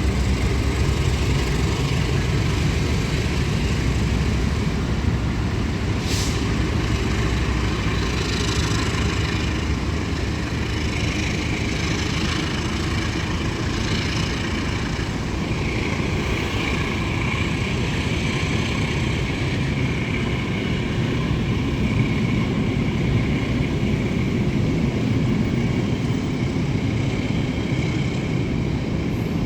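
Passenger train moving through the station: a steady rumble of wheels on rails and the train's running gear, with a faint high squeal from about eleven seconds in.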